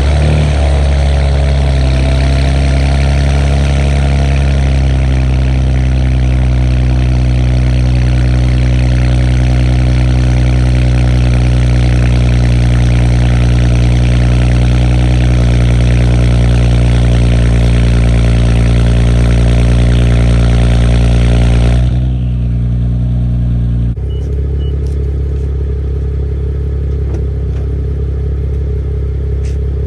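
Infiniti Q50/Q60 twin-turbo V6 with aftermarket downpipes and 3-inch MBRP exhaust, firing up abruptly and running at a loud, steady fast idle typical of a cold start. About two-thirds of the way through the idle steps down, then drops again a couple of seconds later, settling to a lower, steadier idle.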